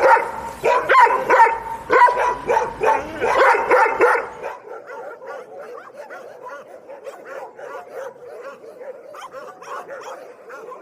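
Dogs barking loudly in quick, repeated barks for about four seconds. Then a quieter, continuous run of many short high yips and whines.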